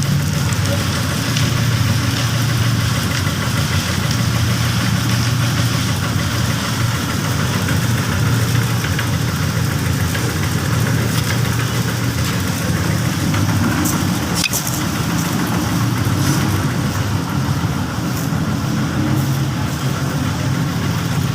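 Small engine of a bored-pile drilling rig running steadily at a constant speed, with one brief high-pitched chirp about two-thirds of the way through.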